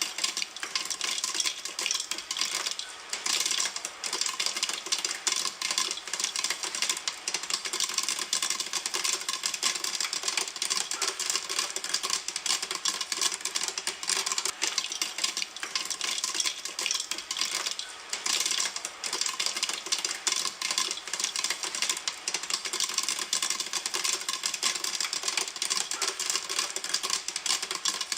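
Popcorn popping in a pan: a dense, steady run of sharp pops and clicks, many a second, with kernels rattling against the pan.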